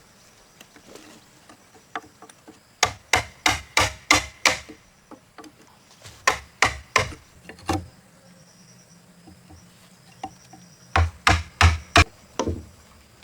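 Repeated blows of a tool on timber, in three quick runs of about five or six strikes each.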